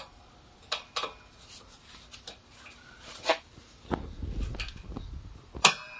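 Scattered sharp metallic clinks and knocks from hand tools and parts as an Enduro joint ball and poly bushing are forced into a track bar under tension, with a low rumbling scrape about four seconds in.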